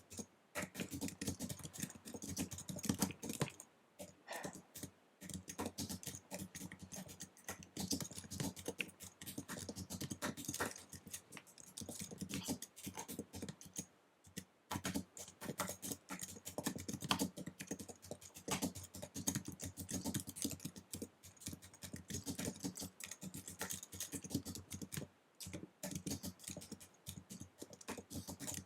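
Fast typing on an Apple wireless keyboard: a dense, rapid stream of light key clicks. There are short breaks about four seconds in, around the middle and a few seconds before the end.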